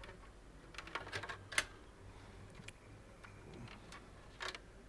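Faint, scattered clicks and light taps, the sharpest about one and a half seconds in, from PC case cables and their plastic connectors being handled against the case.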